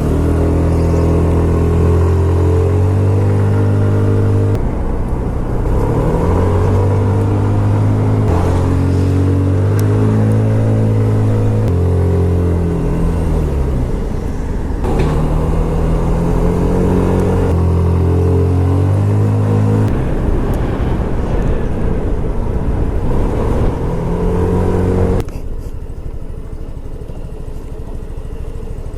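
Scomadi TT125 scooter's 125cc single-cylinder four-stroke engine under way, its pitch holding steady for stretches and rising and falling as it speeds up and eases off. About 25 seconds in it drops suddenly to a quieter, lower rumble.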